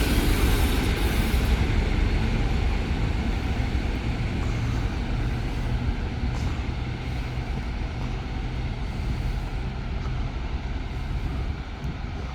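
Diesel engine of a ChME3 shunting locomotive running with a steady low rumble, which slowly fades. A brief hiss comes at the start.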